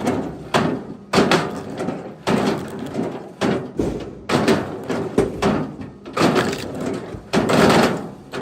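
Pieces of wood knocking and clunking together in quick, irregular succession, about two sharp knocks a second, as chunks of firewood are handled and tossed onto one another.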